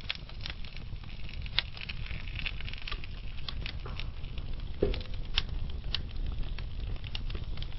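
Wood fire burning in a fireplace: a low steady rumble of flame under scattered crackles and pops from the burning logs, with a few sharper pops around five to six seconds in.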